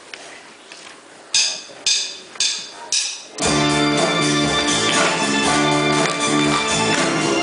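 Four sharp count-in strikes about half a second apart, then a live rock band with drums, guitar and organ-style keyboard kicks in on the opening of a song.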